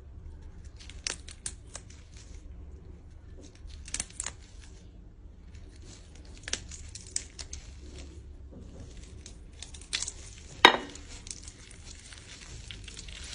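Chicken feet being cut and deboned by hand: irregular crinkly snips and tearing, with one sharp, briefly ringing clink about ten and a half seconds in.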